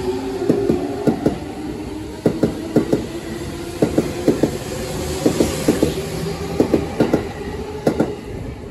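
Musashino Line electric commuter train pulling out of the station and passing close by: a steady rumble with its wheels clacking over the rail joints in quick pairs and groups. It fades as the last car goes by near the end.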